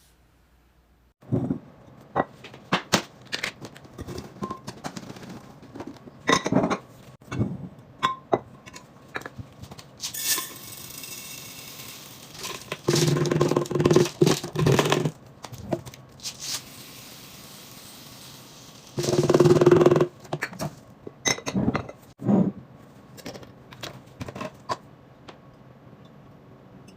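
Restocking handling sounds: containers and packaging picked up and set down in a run of clicks, clinks and knocks. A hiss comes about ten seconds in, and two longer rushing sounds with a low hum come in the middle.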